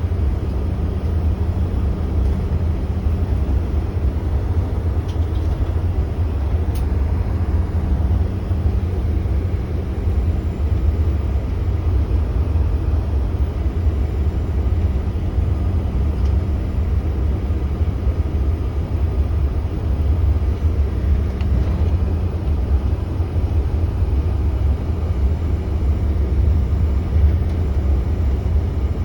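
Cabin noise of a CRJ-900 regional jet taxiing: a steady low rumble with a faint steady hum from its engines at taxi power, heard from a front-row seat.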